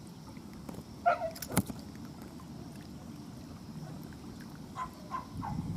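Wind and choppy water lapping at a reservoir shore, a steady low rush, with a sharp click about one and a half seconds in and a few brief chirps.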